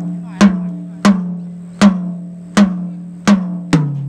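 An 8-inch rack tom on a PDP FS Series drum kit, struck with single hits about once every 0.7 seconds during a soundcheck, each hit ringing out at a steady pitch with a slightly choked tone. Near the end a lower-pitched tom is hit once.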